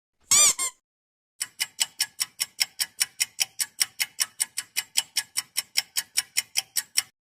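Ticking sound effect: sharp, evenly spaced ticks at about five a second for some five and a half seconds. Just before it, a short two-part squeak with a wavering pitch.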